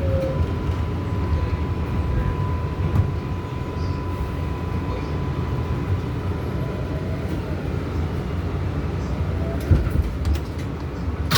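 Inside an R188 subway car: steady low rumble of the train, with a faint, thin steady whine from the car's equipment for the first several seconds and a couple of knocks near the end.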